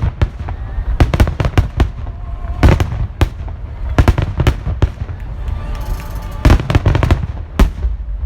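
Aerial fireworks shells bursting in a rapid, irregular string of sharp bangs, several a second at times, with the heaviest cluster near the end.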